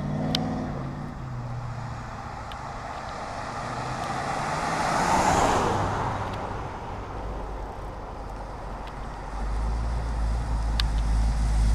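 A car passes by, its noise swelling to a peak about five seconds in and then fading. About nine and a half seconds in, a deep V8 engine rumble starts up close and grows louder: the 1970 Mustang's 302 V8 running.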